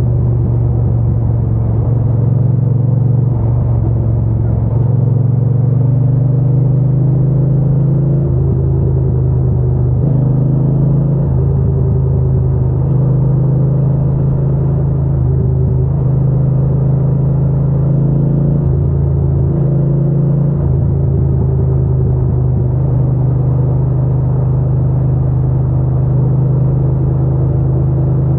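Triumph Bonneville T120's 1200 cc parallel-twin engine and exhaust running at a steady low pitch, a continuous low rumble with no revving.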